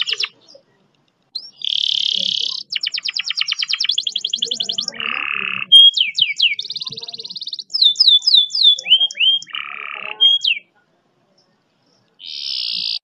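Domestic canary singing a tutor song of long speed rolls: a string of varied high-pitched phrases of buzzy trills, fast rattling rolls and quick downward-sliding whistles, with short pauses between, and a gap of over a second near the end before it starts again.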